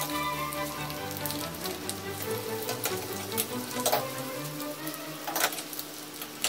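Cashews and raisins sizzling and crackling as they fry in hot fat in a small aluminium pan, stirred with a metal spoon. Two louder rasping scrapes come about four and five and a half seconds in. Soft background music plays underneath.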